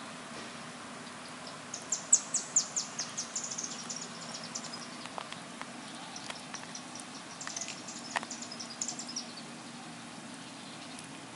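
Small bird chirping in two quick runs of short, high notes, the first about two seconds in and the second a little past the middle, over a low steady hum.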